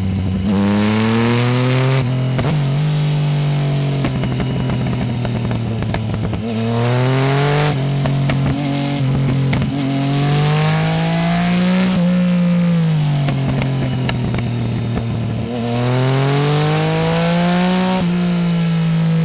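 Yamaha Tracer 900 GT's 847 cc inline-triple, breathing through a full Roads Italia aftermarket exhaust, pulling hard in several bursts: the engine note climbs, drops suddenly at the upshifts about two and eight seconds in, falls away as the throttle is eased around twelve seconds, then climbs again near the end.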